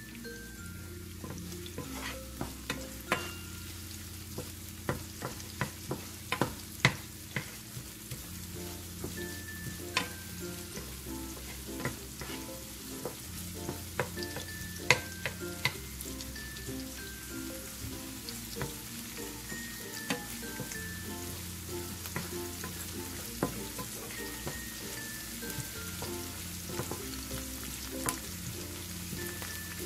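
Food sizzling in hot oil in a pan while it is stirred, with many sharp clicks of the utensil against the pan, most of them in the first half. Light background music with a steady bass and a repeating falling melody plays throughout.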